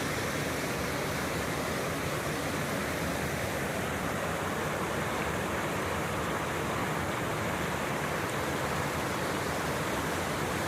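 Waterfall on a creek rushing steadily: an even, unbroken noise of falling water.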